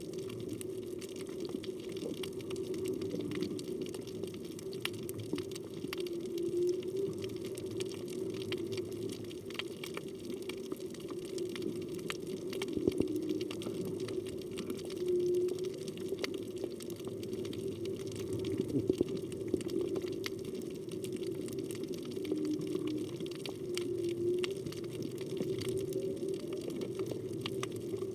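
Underwater sound on a reef: a steady low hum with scattered faint clicks, and short low tones every few seconds, with a rising one near the end. The tones are the distant song of humpback whales.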